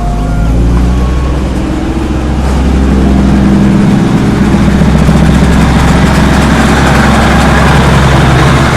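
Diesel train's engine running loud and close, with its pitch rising slightly a couple of seconds in as it pulls along the track.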